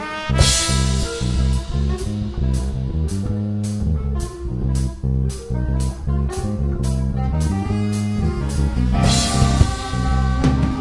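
Band playing a swing-jazz style number: guitar over a drum kit keeping a steady beat, with cymbal crashes just after the start and near the end.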